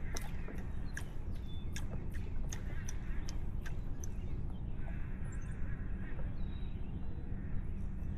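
Wind buffeting the microphone in a steady low rumble, with irregular sharp ticks through roughly the first half.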